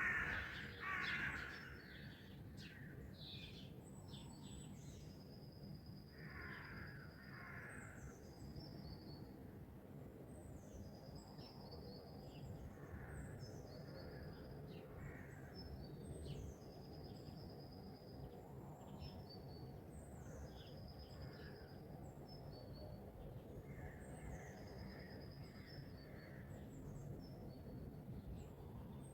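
Crows cawing, loudest right at the start and again about six to seven seconds in. A songbird repeats a short high phrase every couple of seconds. A low steady background rumble runs underneath.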